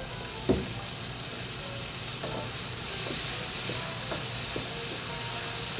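Hot pan sizzling steadily as a splash of vegetable broth deglazes it, with a utensil knocking against the pan about half a second in and a few lighter knocks and scrapes of stirring after.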